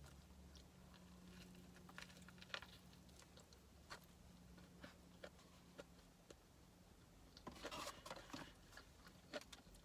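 Faint chewing and mouth sounds of someone eating a crispy fried chicken sandwich: scattered small clicks over a low steady hum, with a short, slightly louder stretch of noise near the end.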